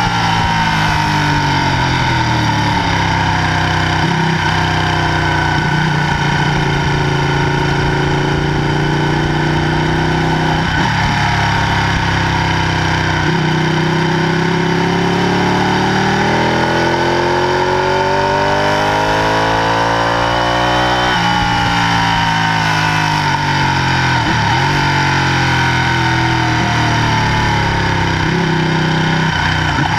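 Ducati Panigale 899's 90-degree V-twin engine pulling the bike around a racetrack at speed, heard from onboard. The engine note sinks slowly at first, climbs for several seconds past the middle, drops suddenly at a gear change, and climbs again.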